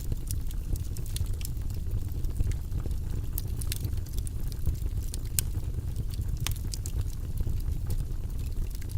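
Wood fire in a fireplace burning with a steady low rumble of flame and frequent irregular sharp crackles and pops.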